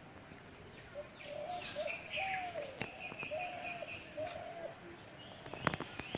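Birds calling: a run of short, low, bending notes like cooing, with higher chirps over them, and a few sharp clicks near the end.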